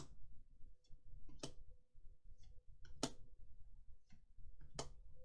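Magic: The Gathering cards being handled and set down: sharp clicks about every one and a half seconds with fainter ticks between them, over a faint steady hum.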